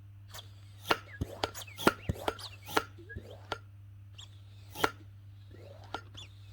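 Irregular sharp clicks and knocks, a dozen or so, with a few short squeaks, over a steady low hum.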